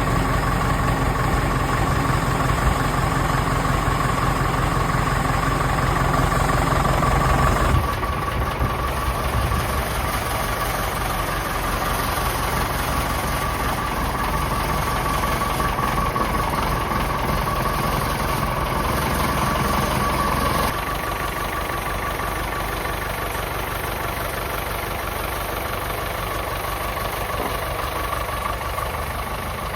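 Vintage Nuffield tractor engine idling steadily on a cold start, with its lights switched on to load it and warm it up. The sound drops a little about 8 seconds in and again about 21 seconds in.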